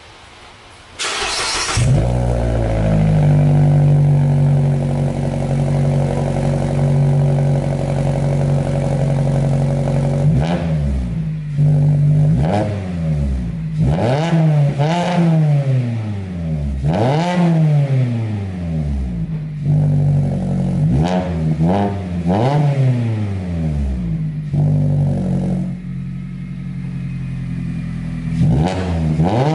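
2016 Mazda MX-5 Miata four-cylinder engine through a newly fitted Invidia exhaust, starting up about a second in and idling. From about ten seconds on it is revved again and again in quick blips that rise and fall in pitch.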